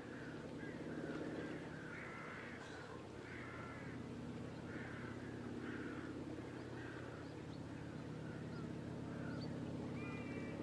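Birds calling, a series of short calls about once a second, over a steady low background noise. Near the end come two short calls of clear, steady pitch.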